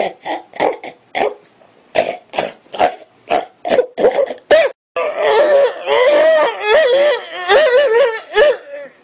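A man making strange vocal noises: a quick run of short, sharp bursts from the throat, two or three a second, then, after an abrupt cut, a sustained voice whose pitch warbles up and down.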